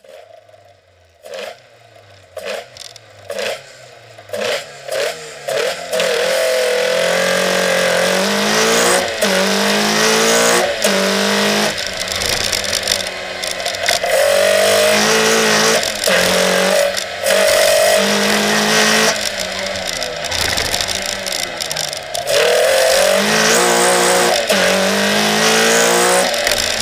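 Toyota Starlet rally car's 2.0-litre 3S-GE BEAMS four-cylinder engine on individual throttle bodies, heard from on board: short sharp revs for the first few seconds, then hard acceleration with the pitch climbing and dropping at each gear change, easing off briefly for a corner before pulling hard again.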